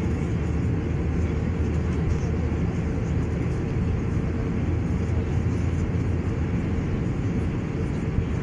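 Steady low drone of an Airbus A321-200 in flight, heard inside the passenger cabin: engine and airflow noise, unchanging throughout.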